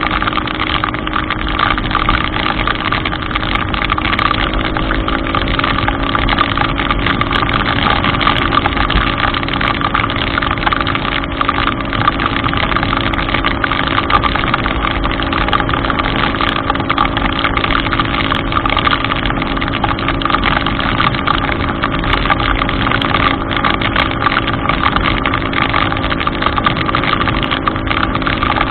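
A vehicle engine running steadily at a constant speed, under a continuous hiss of heavy rain and water.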